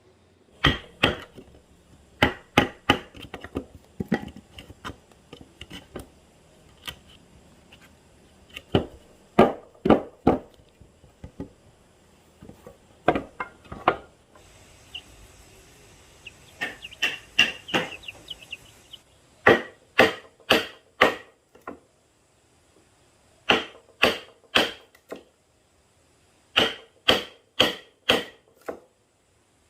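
A hand tool striking wood in short runs of several sharp blows, about two to three a second, with pauses between the runs.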